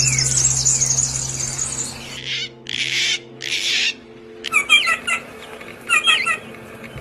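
Small songbirds calling: a rapid high trill, then two harsh rasping calls of about half a second each, then short repeated chirping phrases near the end.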